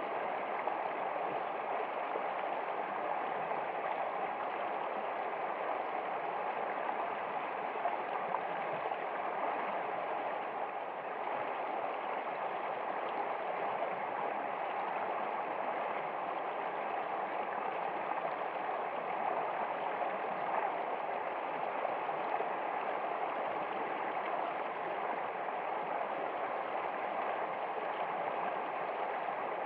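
Water running in a stream, a steady even flow.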